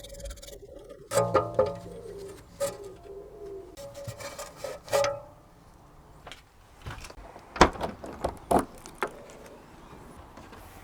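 Intermittent metallic clanks and knocks of hand tools and brake parts being worked loose on a car's rear underbody, some of the strikes ringing briefly. There is a cluster about a second in and a louder group of knocks near the end.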